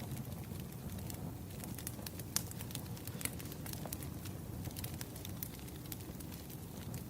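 Wood fire crackling, with irregular sharp pops over a low, steady rumble of burning logs.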